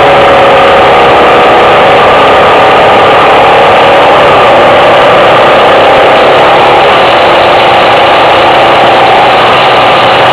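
Suzuki XF650 Freewind's single-cylinder four-stroke engine running steadily while the motorcycle is ridden, under a loud rushing noise. Its pitch eases down a little over the first few seconds and then holds.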